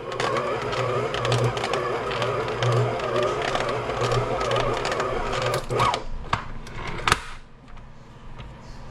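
Stand mixer motor running under load as its dough hook kneads a stiff bread dough, with a low throb about every second and a third. It stops about six seconds in, followed by two sharp knocks.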